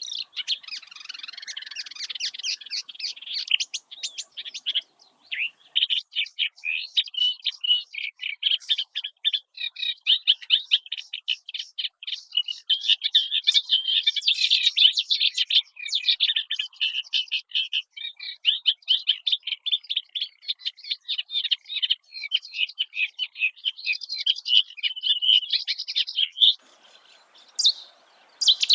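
Small birds chirping rapidly and continuously, many short high notes overlapping, with a brief lull near the end before the chirping picks up again.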